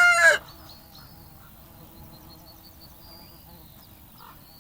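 A rooster's crow ends in the first half-second. Then comes faint farmyard background with small high chirps and a light insect buzz.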